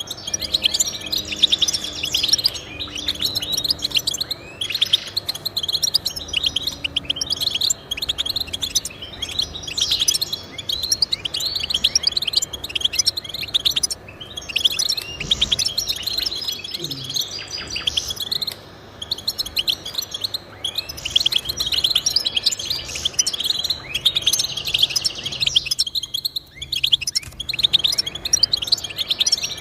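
Finch song: a fast, continuous twittering of quick high chirps and trills, with only brief pauses, one of them about 26 seconds in.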